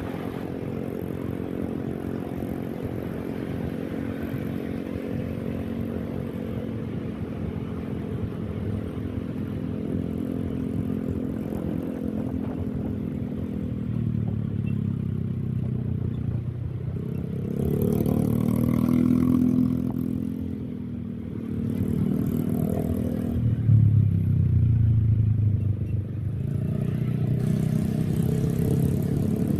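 Motorcycle engine running on the move, steady for the first half. From about the middle on it speeds up and eases off several times, the pitch rising and falling with each throttle opening.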